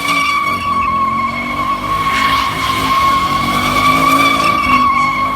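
Car tires squealing in one long steady screech as the wheels spin, with the engine revving up and down underneath.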